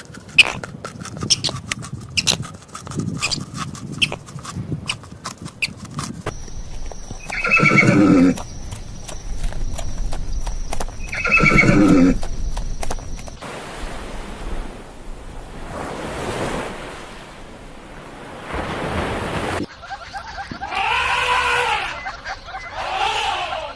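Horses neighing: two loud whinnies a few seconds apart, with a few shorter arching calls near the end. A run of sharp clicks and knocks comes first, and a stretch of breathy noise falls between the whinnies and the last calls.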